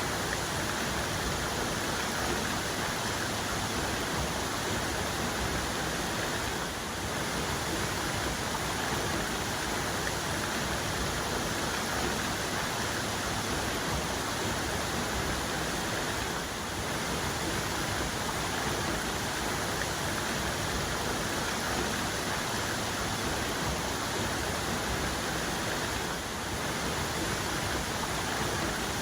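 Waterfall cascade: a steady rush of falling water, even and unbroken.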